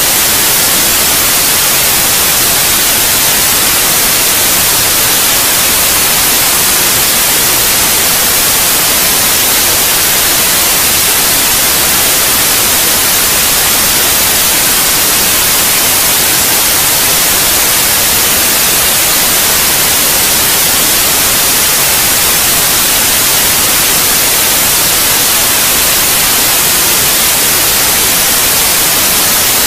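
Steady, loud white noise: an even, unchanging hiss, strongest in the high frequencies, played as a sleep aid for babies.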